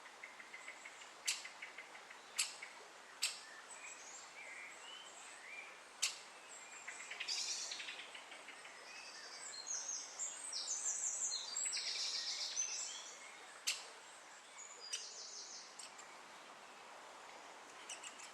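Great spotted woodpeckers calling: about half a dozen sharp single calls scattered through, and in the middle several seconds of rapid, high, repeated chattering notes. Fainter song of other small birds runs underneath.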